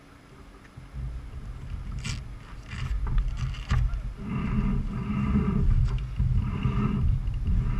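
Superbike engines running, with heavy low rumble that could be wind on the microphone; the sound swells about a second in and grows louder after about four seconds, with a few sharp clicks along the way.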